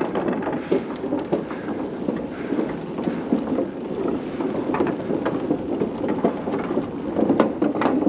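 Bicycle tyres rumbling across the deck of a swinging suspension footbridge, a steady loud rumble with constant irregular clattering and rattling.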